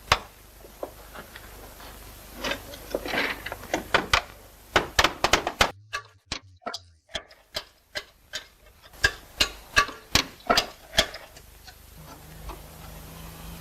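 Slater's hammer striking slate and nails in quick, irregular sharp taps, with a short silent break about six seconds in.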